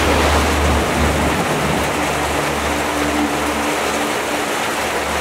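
Steady heavy rain falling on wet paving, puddles and leaves, with low held notes of background music underneath.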